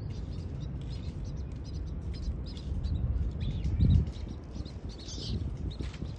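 Scattered faint high bird chirps over a steady low rumble, with a brief loud low thump about four seconds in.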